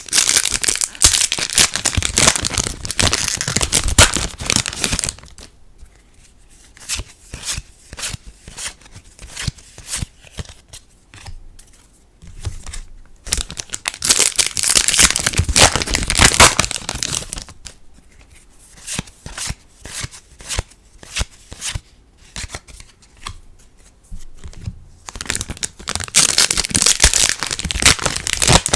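Foil booster packs of trading cards being torn open and crinkled, in three loud stretches of crackling, with softer clicks and rustles of cards being handled in between.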